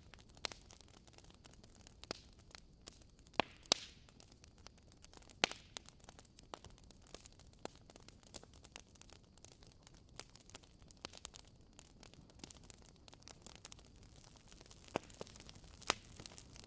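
Firewood burning in a fireplace, crackling with irregular sharp pops and snaps over a soft hiss, a few of the snaps much louder than the rest.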